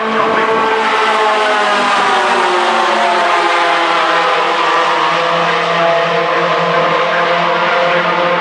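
Racing pickup truck engines running hard, their pitch falling gradually over several seconds and then levelling off near the end.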